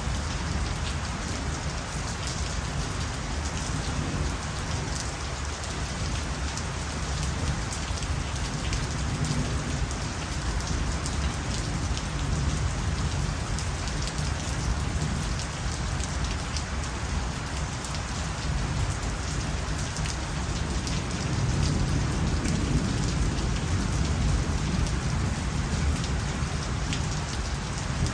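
Steady heavy rain falling on surfaces: a dense even hiss flecked with many small drop ticks, over a low rumble.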